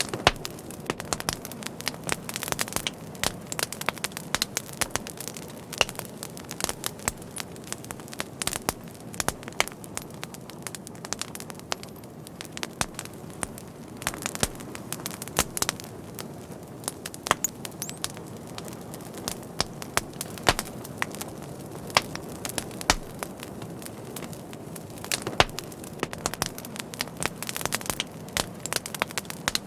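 Wood fire burning with frequent sharp crackles and pops over a steady low rush of the flames.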